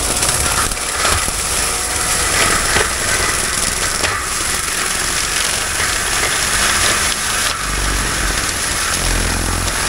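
Heavy equipment's diesel engine running steadily under load, with a continuous loud mechanical din and a low rumble that swells briefly a couple of times near the end.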